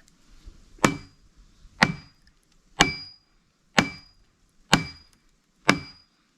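An axe striking a wooden wedge driven into a log to split it: six steady blows about a second apart, each with a short metallic ring from the axe head.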